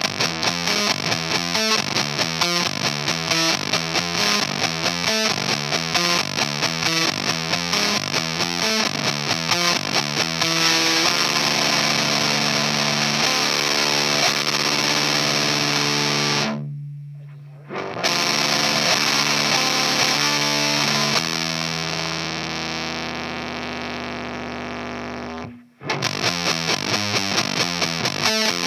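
Baritone electric guitar played through an EarthQuaker Devices Erupter fuzz pedal. It opens with a fast, chugging distorted riff, moves to sustained fuzzed chords, and stops briefly about 17 seconds in. A long held chord then fades until it is cut off near the end, and the riffing comes back.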